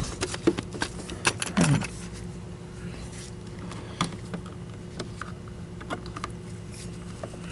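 Small metal tools clicking and rattling as drill bits are handled and swapped, a burst of clinks in the first two seconds and then scattered light taps.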